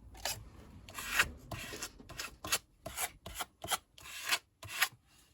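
Hand rubbing over paper in a series of short, irregular strokes, about two a second, pressing a freshly glued paper piece flat onto a journal page.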